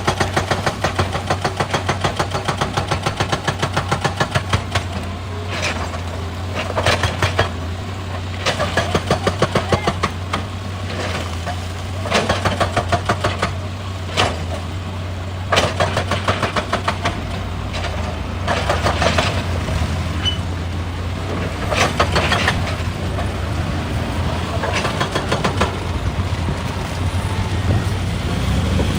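Excavator's diesel engine running with a steady low drone, broken every few seconds by short bursts of rapid, even clattering.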